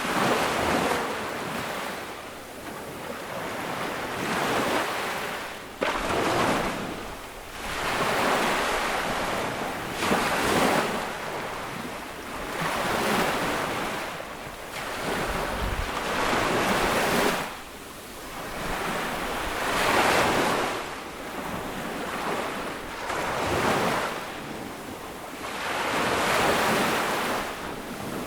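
Ocean waves breaking and washing up the shore, a new surge about every two seconds.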